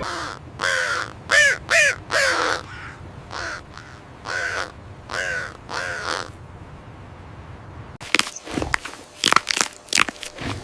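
An animal calling repeatedly: about nine short, harsh calls spread over the first seven seconds. About eight seconds in, they give way to a run of sharp cracks or snaps.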